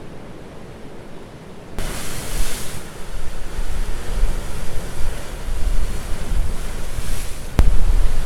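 Sea surf washing on the shore with wind buffeting the microphone. It starts as a quieter steady hiss, then about two seconds in jumps louder with a rush of surf and a gusty low rumble. A sharp click comes near the end, after which the wind rumble grows heavier.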